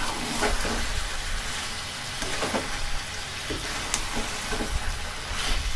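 Chicken pieces frying in oil and spice paste in a kadai, sizzling steadily, while a metal spatula stirs them and scrapes and knocks against the pan every second or so. This is the meat being browned in the masala on a low flame.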